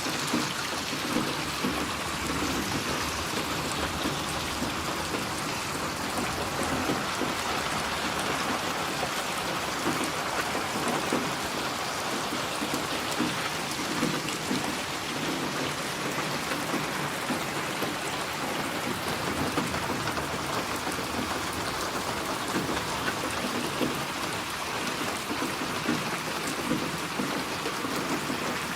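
Steady rain falling without a break, with many small individual drop hits through it.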